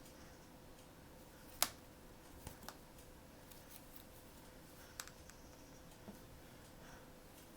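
Faint handling of blind-box packaging: scattered small clicks and taps, with one sharp click about one and a half seconds in, over a faint steady hum.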